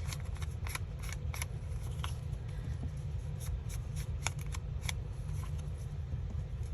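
Paper pieces being handled and shuffled: scattered crisp rustles and light taps over a steady low hum.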